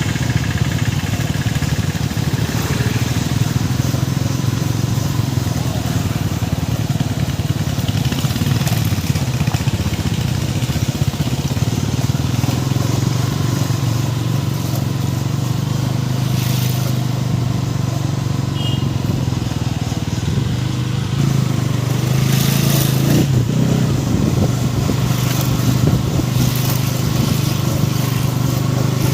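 Motorcycle engine running at a steady, even pitch, with brief hissy gusts about 16 and 22 seconds in.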